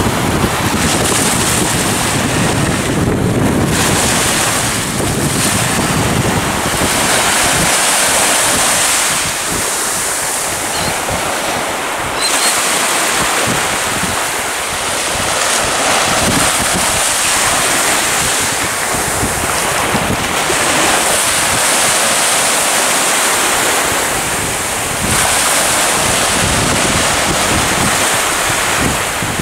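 Surf and wind buffeting the microphone: a loud, steady rushing noise that swells and eases every few seconds.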